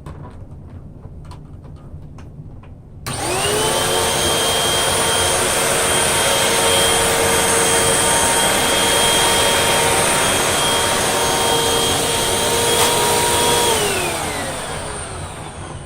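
2013 Hoover WindTunnel 2 High Capacity Pet upright vacuum cleaner, after a few faint clicks, switched on about three seconds in. Its motor spins up quickly to a loud, steady whine over a rush of air. Near the end it is switched off, and the whine falls in pitch as the motor winds down.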